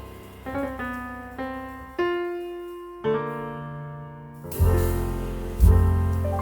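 Slow piano music: single notes and chords struck about once a second and left to ring out, with deep bass notes coming in a little past the middle.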